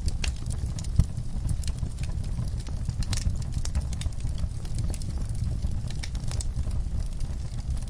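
Wood fire in a fireplace crackling: irregular sharp pops and snaps over a steady low rumble, with one louder pop about a second in.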